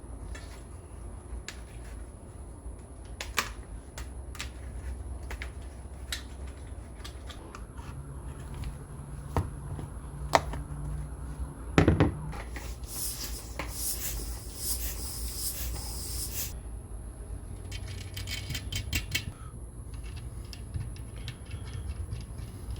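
Scattered light clicks and knocks of hand work with tools and parts, a sharper clatter about twelve seconds in, and a hiss lasting about three seconds just after it, over a steady low hum.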